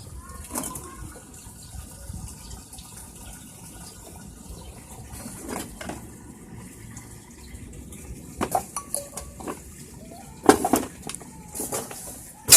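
Chili plant leaves rustling and stems snapping as chilies are picked by hand, in irregular crackles with a cluster of sharper snaps in the second half.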